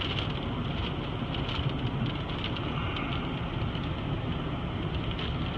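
Steady noise of a car in a gale-force thunderstorm: wind and rain on the car over the low rumble of the vehicle.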